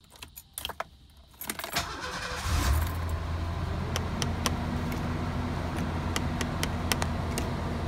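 Keys jangle in a Ford Bronco's ignition, then the engine cranks briefly and starts about two and a half seconds in, settling into a steady idle. A few light clicks sound over the idle.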